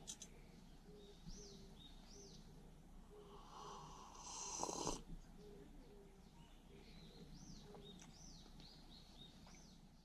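Faint forest ambience: small birds calling with quick rising-and-falling chirps, in a run about a second in and again near the end, over a soft low hum. A brief, louder rush of noise comes about four to five seconds in.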